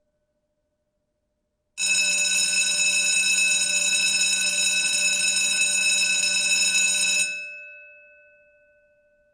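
Electric alarm bell, the school- or fire-bell kind, ringing continuously for about five and a half seconds, starting about two seconds in. It cuts off abruptly and its gong rings on, fading over the next two seconds.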